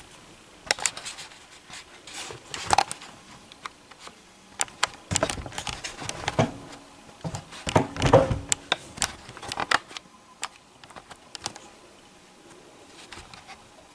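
Scattered clicks, taps and short rustles from hands handling things, with the sewing machine not running.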